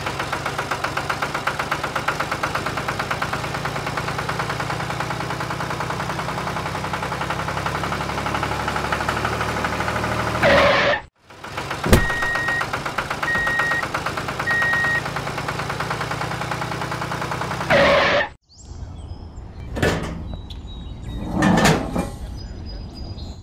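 A small engine runs with a steady, rapid chug and is cut off abruptly twice. Three short, evenly spaced high beeps sound over the second stretch. Near the end come a few knocks and clicks of small plastic parts being handled as a trailer is hitched to a toy tractor.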